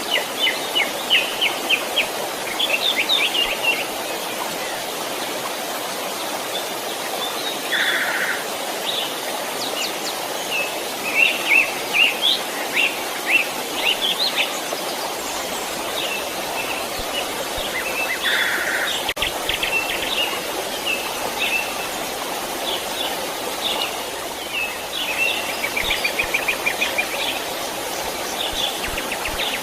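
A stream flowing steadily, with small birds chirping in quick runs of notes over the water noise and two short, lower calls about eight and eighteen seconds in.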